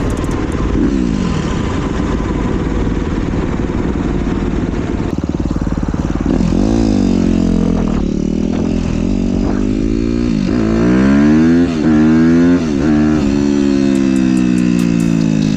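2015 Suzuki RM-Z250 four-stroke single-cylinder dirt bike engine under way on the road. It runs at a steady pitch at first, then from about six seconds in revs up and drops several times as it goes through the gears, and settles into a steady cruise near the end.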